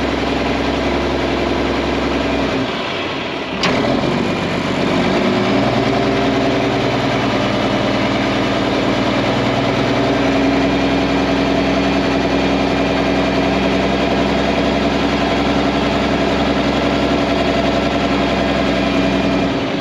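Mack diesel truck engine running steadily. A few seconds in it dips briefly and there is a sharp click, then it carries on at a slightly different steady pitch.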